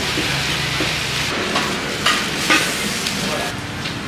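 Food frying and sizzling in hot oil, a steady hiss, with a few short clicks about halfway through.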